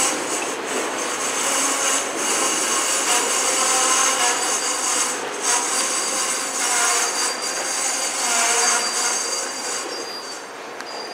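Double-stack container well cars of a freight train rolling past on the rails: a steady rolling hiss of steel wheels on rail, with high, wavering wheel squeal as the wheels work through the curve.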